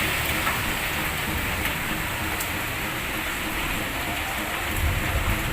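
Steady rain falling, an even hiss, with a low rumble rising near the end.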